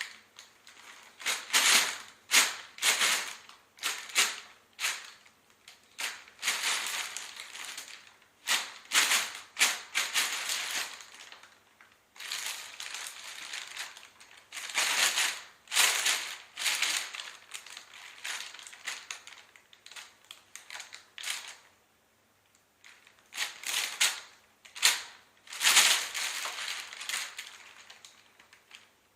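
A bag crinkling and rustling in irregular bursts as a cat plays with it, with brief pauses in between and one longer pause about 22 seconds in.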